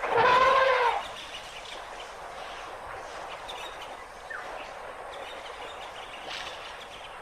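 One loud pitched animal call, about a second long, right at the start. After it comes steady outdoor ambience with faint bird chirps.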